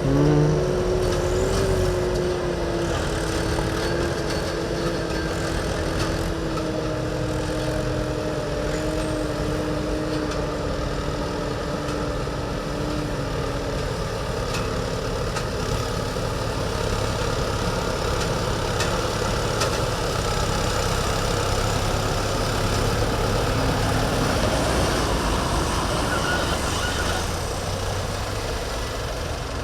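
An engine running steadily, its pitch sinking slightly over the first dozen seconds.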